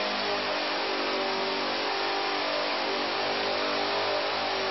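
Chevrolet LT1 6.2-litre small-block V8 running on an engine dynamometer. It holds a fairly steady speed, its pitch wavering only slightly.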